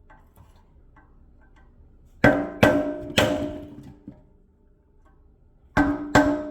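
Five sharp metal strikes that ring afterwards, three in quick succession and then two more near the end. A tool is being hammered under the edge of a stuck rear hub dust cap to knock it off.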